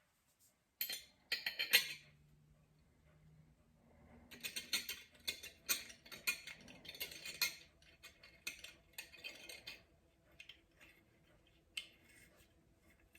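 Small metal parts of a replacement pot-lid handle clicking and rattling as they are handled and the handle is screwed on by hand: a quick cluster of clicks near the start, a longer busy run in the middle, then a few scattered clicks.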